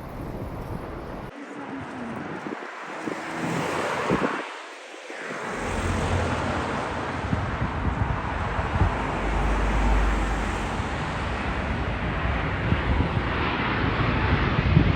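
Jet airliner engines on landing approach: a steady rushing roar that slowly builds, with wind buffeting the microphone from about five seconds in.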